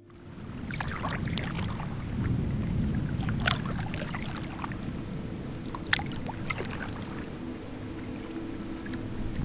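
Thunder from an approaching storm rumbling low and almost constantly. Scattered small splashes and knocks from a paddled kayak sound over it, two of them sharper about three and a half and six seconds in.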